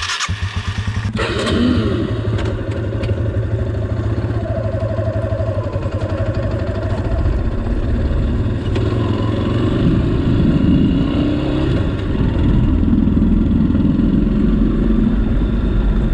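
Single-cylinder Yamaha dual-sport motorcycle engine running steadily as the bike is ridden, with the engine pitch rising and falling slightly.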